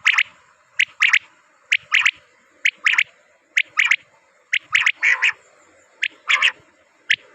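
A game bird calling over and over: a short thin note followed by a harsher double note, repeated about once a second.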